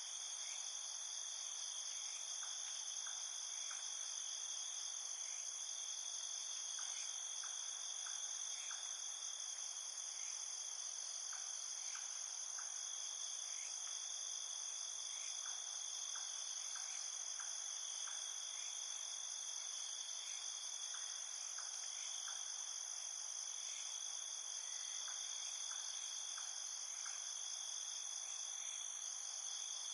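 Steady, high-pitched chorus of insects, with faint short chirps scattered through it.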